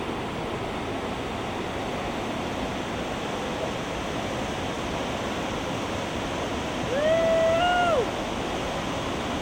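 Steady roar of whitewater from Lava Falls Rapid on the Colorado River. About seven seconds in, a person lets out one long whoop lasting about a second, rising at the start and dropping away at the end.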